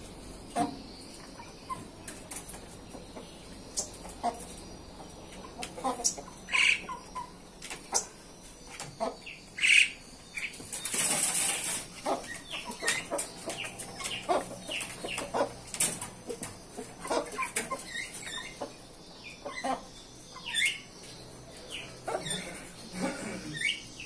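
Several aviary birds restless at dusk, giving many short, sharp calls and flapping their wings as they fly between perches. About eleven seconds in there is a longer rustling burst.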